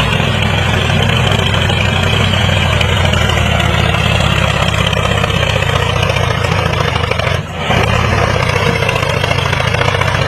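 An engine running steadily, with a brief drop in level about seven and a half seconds in.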